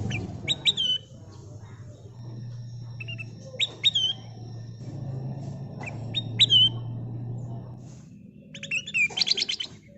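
Kutilang emas bulbul calling in short clusters of loud, quick-slurred whistled chirps, then a rapid trill of repeated notes near the end. A low steady hum lies underneath.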